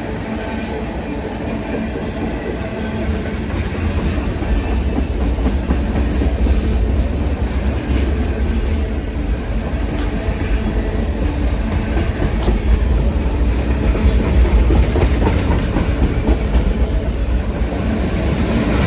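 A train rolling past close by: a steady low rumble with the wheels clattering over the rails, growing a little louder a few seconds in.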